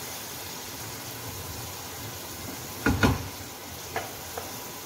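Prawns sizzling steadily in hot oil in a karahi as the last of their water cooks off. About three seconds in, a stirring utensil knocks loudly against the pan twice, followed by two lighter knocks.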